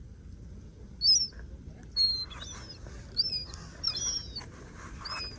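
Small songbirds chirping: a string of short, sharp, high chirps, about one to two a second.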